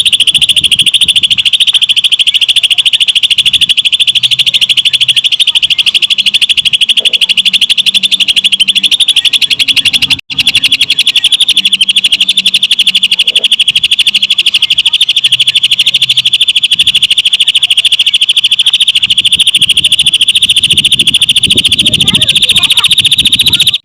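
Cucak ijo (green leafbird) singing one continuous, very fast high-pitched trill in the rapid style of a lovebird, steady and unbroken apart from a brief gap about ten seconds in.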